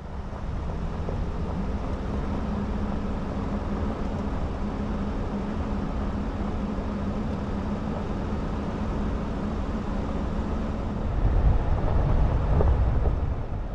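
Vehicle driving on a bumpy dirt road, heard from inside: a steady engine drone with tyre and road rumble, the low rumble growing heavier about eleven seconds in.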